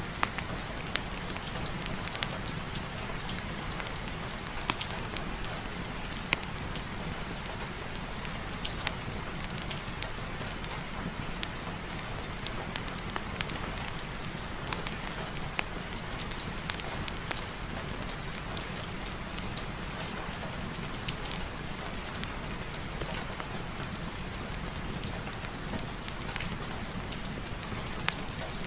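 Steady heavy rain: an even hiss with scattered sharp ticks of single drops.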